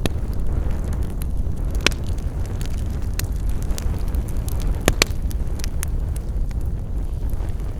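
Campfire burning: wood crackling with scattered sharp pops over a steady low rumble, with two louder pops about two seconds and five seconds in.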